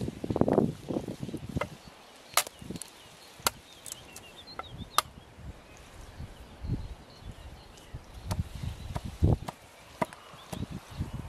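Scattered sharp clicks and knocks, a few seconds apart, over wind gusting low on the microphone.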